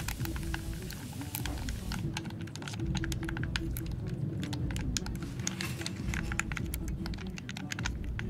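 Rapid, irregular tapping clicks over soft background music with steady low notes. A high rain hiss under them stops about two seconds in.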